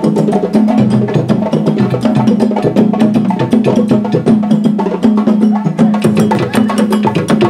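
Percussion ensemble playing timbalada, Bahian-style group drumming on timbal hand drums: many fast, dense strokes over a repeating pattern of deep bass-drum notes.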